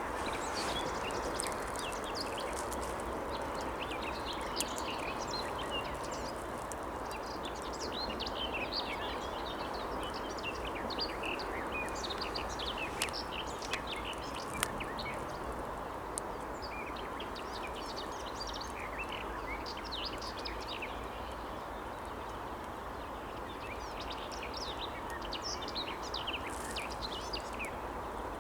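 A bird of a species the recordist could not identify, calling in bouts of quick, short, high chirps over steady background noise.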